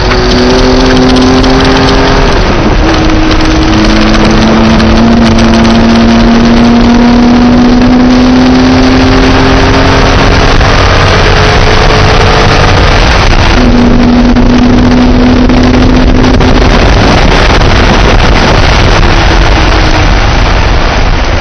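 Porsche engine pulling hard on track, heard loud from inside the cabin over heavy wind and road noise. Its pitch climbs steadily after an upshift about two and a half seconds in, then drops around the middle, and the engine note fades into the wind noise near the end.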